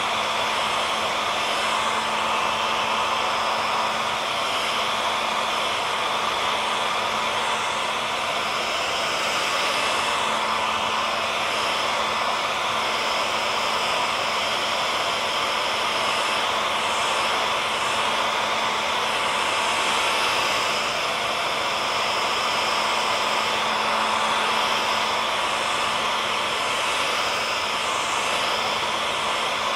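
Hand-held hair dryer running steadily: a constant airy rush with a steady motor whine, used as sleep noise.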